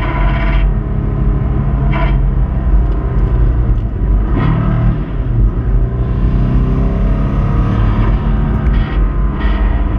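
Subaru Impreza 2.5RS's 2.5-litre flat-four engine running under way on track, heard with road and wind noise, with a few brief louder moments. The engine has a failing rod bearing.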